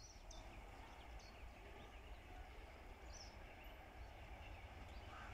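Near silence: faint outdoor ambience with a low steady rumble and a few short, high bird chirps, one near the start, another about a second in and another about three seconds in.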